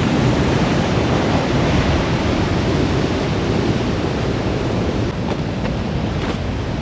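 Steady rushing of a heavy flow of water going through a reservoir's water intake, with wind on the microphone.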